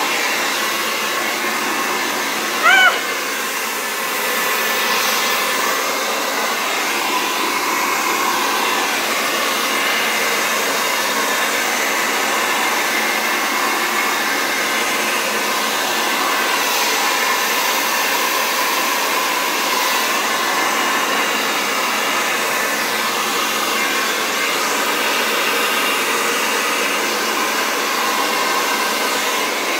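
Hair dryer with a nozzle attachment running steadily, blowing air to spread poured acrylic paint. A brief high-pitched squeak cuts through about three seconds in.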